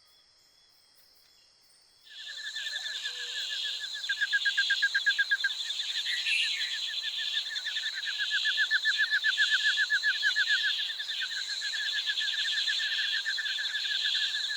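Faint steady insect buzz, then about two seconds in a loud chorus of night insects starts abruptly: fast pulsing trills over a shrill steady hiss.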